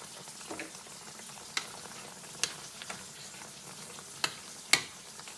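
Sweet potatoes sizzling in butter in a skillet, with a steady hiss of frying. They are being stirred, and a utensil knocks against the pan about five times, the sharpest knocks near the end.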